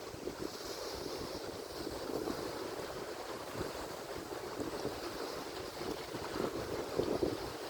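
Atlantic Ocean surf: waves breaking and washing ashore in a continuous rush, swelling a little louder near the end.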